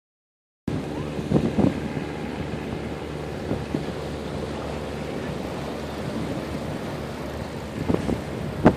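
Wind buffeting the microphone over a steady low engine hum, with a few brief louder gusts or bumps.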